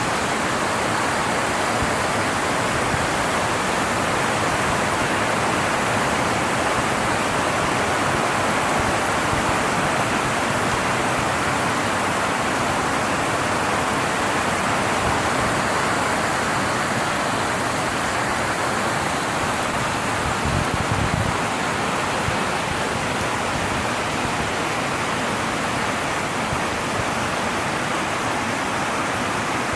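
Heavy rain falling noisily on a tin gazebo roof, a steady, unbroken hiss.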